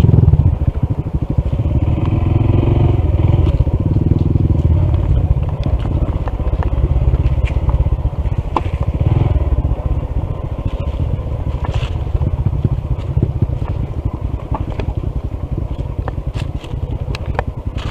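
Honda CT125's air-cooled single-cylinder engine running at low throttle on a rough dirt trail, its tyres crunching over gravel and stones with scattered sharp clicks. The engine has lost power from a faulty piston and a misaligned valve.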